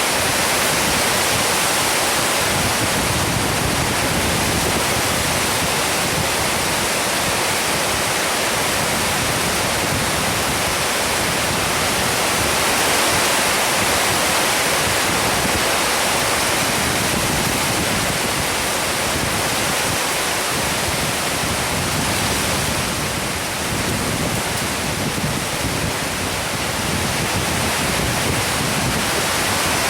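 Heavy rain pouring steadily in a storm, a dense even hiss.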